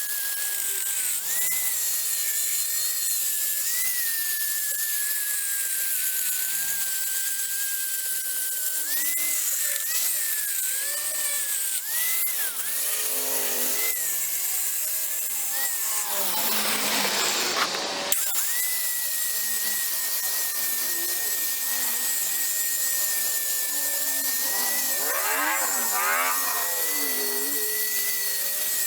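Angle grinder with a flap disc grinding caked rust off a cast-metal anvil. The motor whine holds steady but dips and recovers as the disc bites, with a louder, harsher stretch of grinding a little past halfway.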